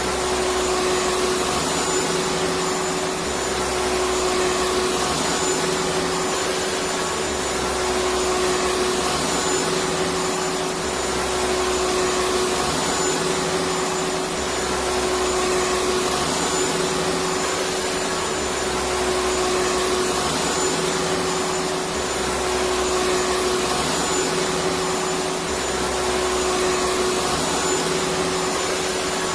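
Electric vacuum cleaner running steadily: an even rushing of air over a constant motor hum, with a low throb that comes back about every four seconds.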